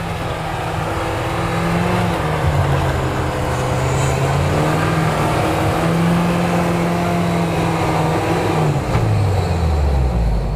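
Suzuki Escudo's engine revving hard and holding high revs under load on a steep snowy climb. The revs fall about nine seconds in.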